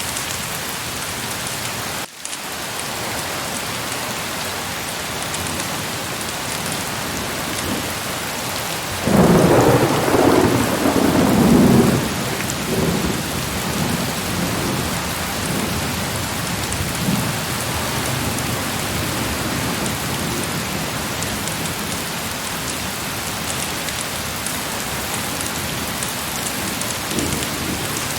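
Heavy rain falling steadily. About nine seconds in, a rumble of thunder lasts around three seconds and then fades. There is a momentary drop-out in the sound about two seconds in.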